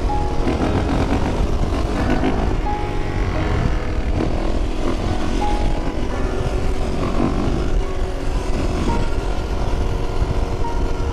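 Single-cylinder motorcycle engine running steadily while the bike is ridden along the road.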